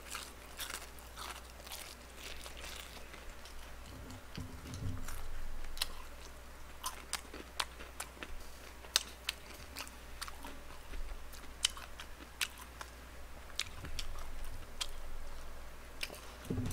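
Close-miked chewing of boneless fried chicken: irregular, crisp crunches and wet mouth clicks, a few to several a second.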